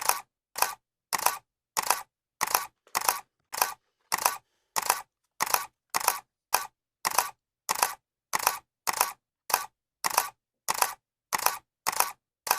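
Camera shutter clicking over and over at an even pace, about two clicks a second, each a short double click with silence between.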